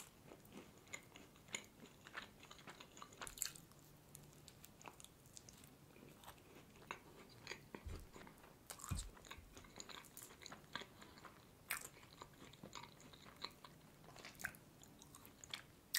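Faint, close-up mouth sounds of a person chewing a bite of a shortcrust basket tartlet filled with jam and custard cream: scattered small wet clicks and soft crunches, with a couple of soft low thumps about halfway through.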